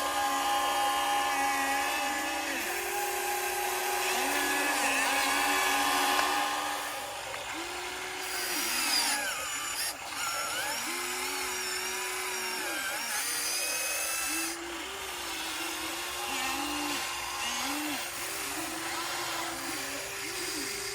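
Radio-controlled excavator's small electric hydraulic pump whining, its pitch stepping up and down every second or two.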